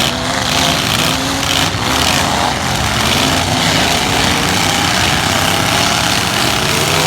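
Several demolition-derby light trucks' engines running loudly and revving, their pitches wavering up and down over one another.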